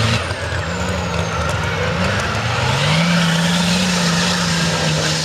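Mega truck engine revving hard, its pitch climbing in two steps and then held high and steady under load.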